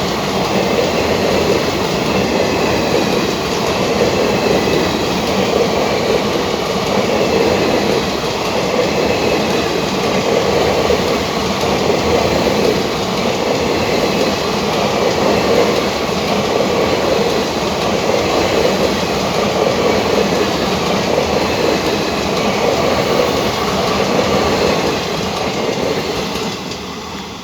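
A moving train running along the track: a steady rumble and rattle of wheels on rails that falls away near the end.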